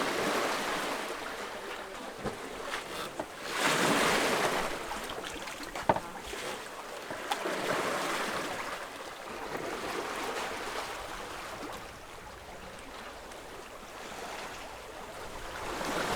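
Sea water washing along a sailboat's hull, swelling and fading every few seconds, with a single sharp click about six seconds in.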